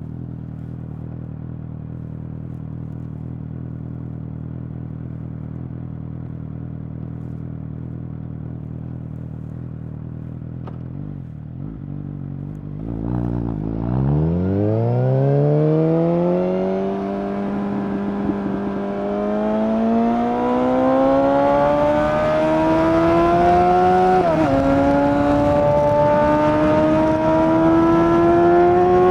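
2019 Suzuki GSX-S750's inline-four engine, breathing through a Yoshimura SQ11 exhaust with no dB killer and a decat, running steadily at low revs, then accelerating hard from about 13 s in. The pitch climbs, dips briefly at a gear change about 24 s in, climbs again, and dips at another shift at the very end.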